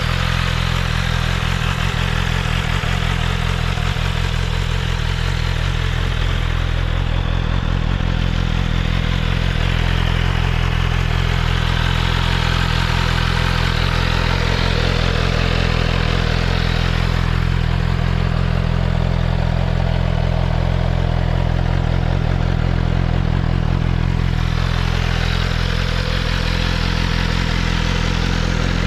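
BMW M1000RR's inline-four engine idling steadily through an Akrapović exhaust.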